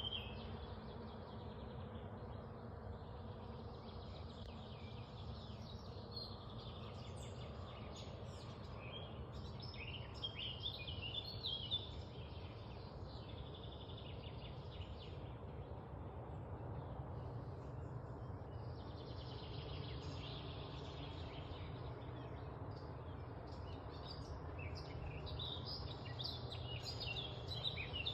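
Small birds chirping in scattered bursts, busiest about a third of the way in and again near the end, over a steady low background noise.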